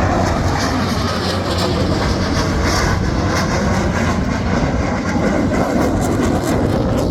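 Steady loud roar of KAI T-50B jet aircraft in flight.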